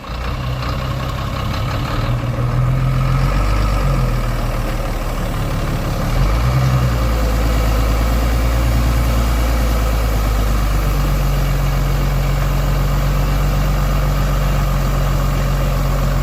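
Heavy off-road truck's diesel engine running steadily under load as the truck drives up through mud. The engine builds up over the first couple of seconds, and its note shifts briefly about six seconds in.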